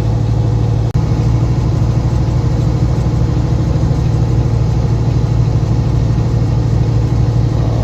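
Semi truck's diesel engine and road noise heard from inside the cab: a steady low drone, broken by a momentary cut-out about a second in.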